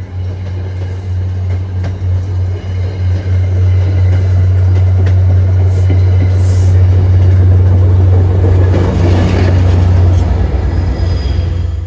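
A train passing close by: a steady low engine drone with wheel and rail noise. It grows louder over the first several seconds, then cuts off suddenly near the end.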